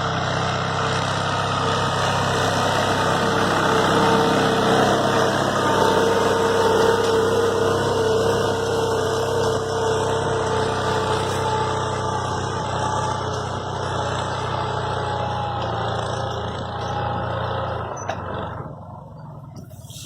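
Captain 28 hp mini tractor's diesel engine running steadily while cultivating, with a faint steady whine above the engine note; the sound drops away near the end.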